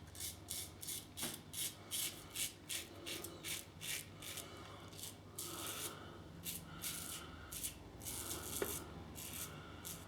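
Double-edge safety razor with a Gillette Silver Blue blade scraping through lathered stubble in short, repeated strokes, about two or three a second, with a few longer strokes midway.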